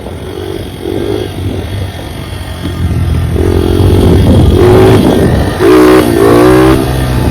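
Dirt bike engine running and being revved, its pitch rising and falling in several surges, loudest over the second half.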